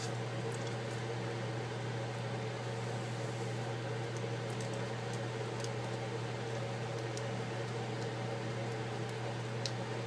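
Steady low hum with an even hiss, and a few faint light ticks as a flimsy ribbon cable is worked into its connector.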